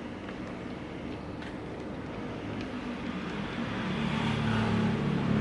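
A steady low motor hum that swells in level over the second half.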